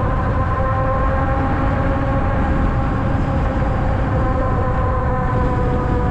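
Ariel Rider Grizzly e-bike under way at a steady speed: the electric hub motor's steady whine over a heavy low rumble of wind and road noise.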